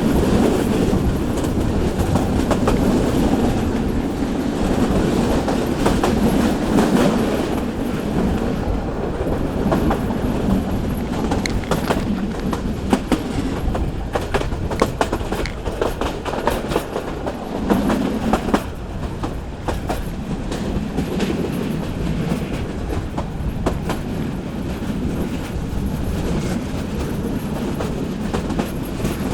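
Local train running along the track: a steady rumble with the clickety-clack of wheels passing over rail joints.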